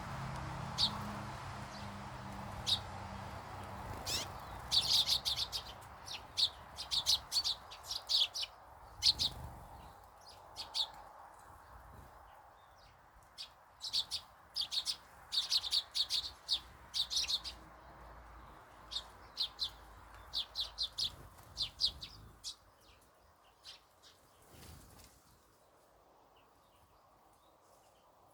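Small garden birds chirping: quick clusters of short, high chirps, busiest in the middle and thinning out toward the end.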